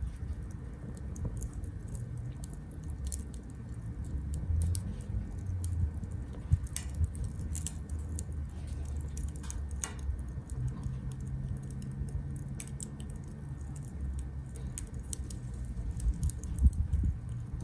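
Small wood fire burning in a compact B6-size grill stove, crackling and popping irregularly over a low steady rumble.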